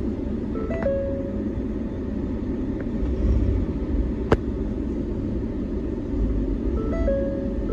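Steady low rumble of the 2015 Ford Explorer Police SUV running. Short two-note tones sound just under a second in and again near the end, and a single sharp click comes about four seconds in.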